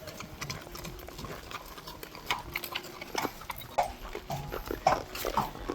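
Horse hooves clopping along a trail as horses walk, an uneven run of knocks that grows louder from about halfway through.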